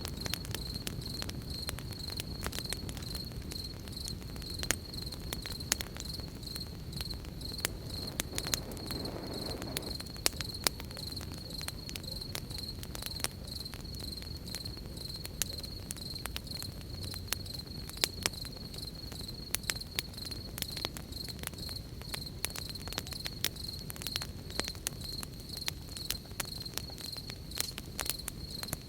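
Crickets trilling steadily in one continuous high-pitched chorus, over a campfire crackling with frequent irregular sharp pops and a low, even hiss.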